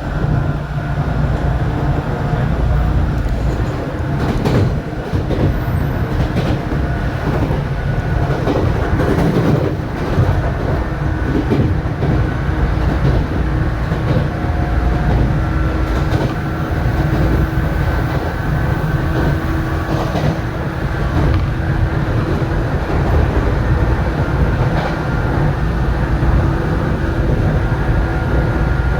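Electric train running at speed: a steady rumble with a faint steady whine and scattered clicks of the wheels over rail joints.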